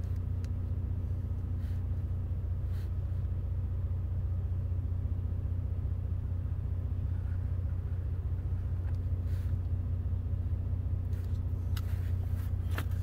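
A vehicle engine idling, heard from inside the cab as a steady low hum, with a few faint scratches of a pen drawing on paper.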